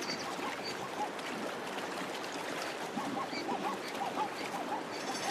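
Many short animal calls overlapping over a steady rush of water, as of a herd of animals in a river.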